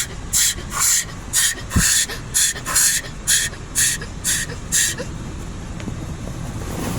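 High-pressure water jets of an automatic car wash sweeping over the car, heard from inside as rhythmic hissing bursts about two a second. The bursts stop about five seconds in, leaving a steady hiss of spray.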